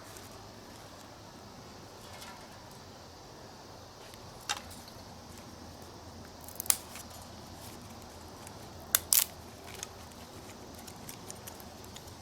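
Wood fire burning in a fire pit made from an old metal pot: a low steady hiss with a few sharp pops from the burning wood, a close pair of them about two-thirds of the way through.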